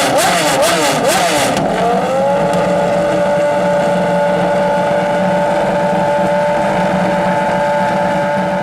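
A supercar engine revved in quick blips, rising and falling about twice a second, with the exhaust popping and crackling. About two seconds in, the crackles stop and the engine climbs to a steady high rev that it holds.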